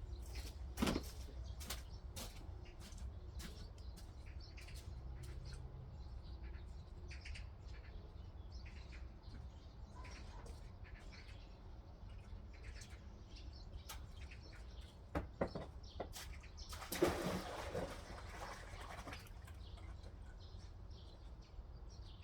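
Shovel working soil: scattered scrapes and knocks of the blade in earth, with a longer rush of scraping about three quarters of the way through.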